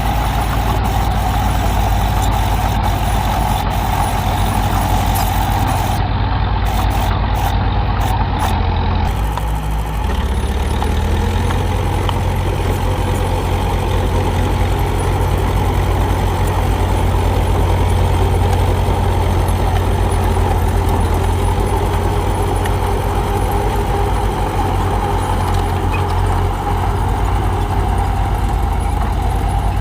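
Heavy diesel engine of earthmoving machinery running steadily, with a brief dip and a change in engine pitch about ten seconds in.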